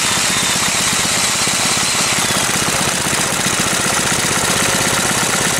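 Small hand-built engine, its cylinder head raised on spacers, running steadily with a rapid, even firing beat.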